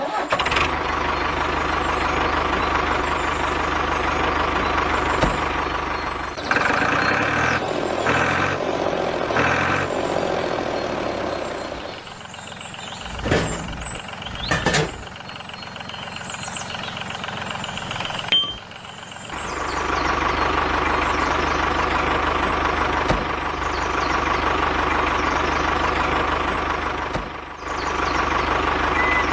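Small electric motor of a DIY model tractor running steadily, with a few abrupt changes in level partway through.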